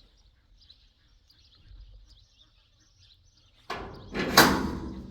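A door being opened: a sudden start, then a loud, short rush of scraping noise that fades. Faint birdsong chirps before it.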